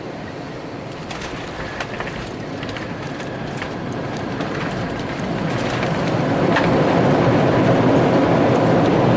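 Steady rumble of an airliner heard from inside the cabin, with a few light clicks or rattles early on. The engine noise swells about six seconds in, as when thrust comes up.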